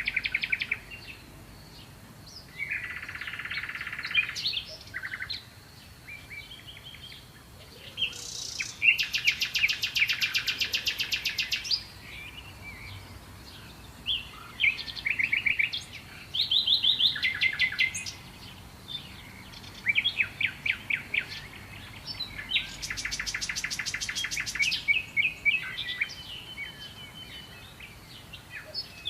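Songbirds singing: phrases of quick chirps and fast trills a few seconds long, with short pauses between them.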